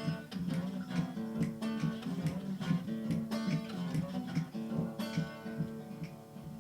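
Acoustic guitar played between sung verses, a picked and strummed accompaniment with notes struck several times a second.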